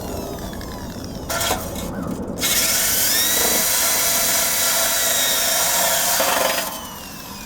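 Power drill with a wire brush scrubbing rust off the motorcycle's undercarriage. It gives a couple of short bursts, then runs steadily for about four seconds with a high whine, and winds down near the end.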